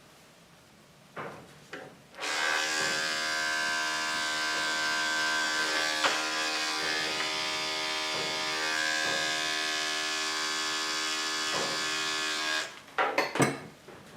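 Electric grooming clippers switched on and running with a steady buzzing hum for about ten seconds, then switched off, followed by a few clattering knocks as they are handled.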